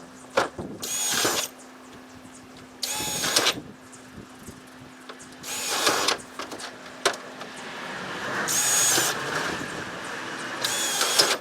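Power drill running in five short bursts, each under a second, with a whining motor tone: screws being driven into the wood of the shed.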